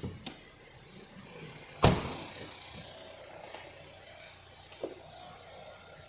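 A few sharp knocks, with one loud slam about two seconds in, over faint background noise.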